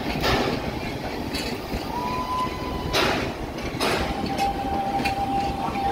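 Narrow-gauge passenger train coaches rolling past on a curved trestle: a steady low rumble with sharp clicks of the wheels over the rail joints, and a thin, steady wheel squeal on the curve that starts about two seconds in and carries on slightly lower near the end.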